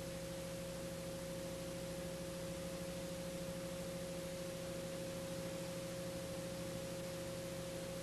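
Steady electrical hum with faint hiss: a few fixed tones with no change in pitch or level, and no engine spooling up or down.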